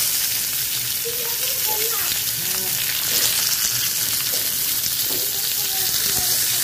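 Strips of raw potato sizzling steadily in hot oil in a karahi, frying just after being added.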